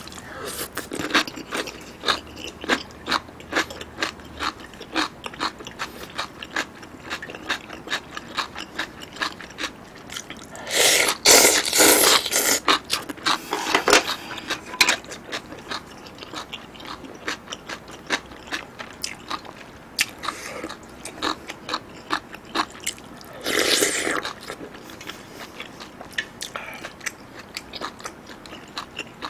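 Close-miked eating: a crunchy bite of stuffed-cucumber kimchi, then steady chewing with many short wet mouth clicks. Twice, about 11 and 24 seconds in, a louder noisy stretch of about a second and a half.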